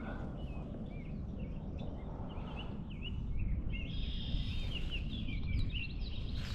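Songbirds chirping in a quick run of short, warbling notes that grow busier in the second half, over a steady low rumble.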